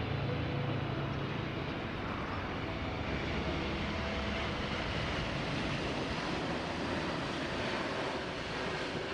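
Jet aircraft engines, a steady rushing noise that holds throughout.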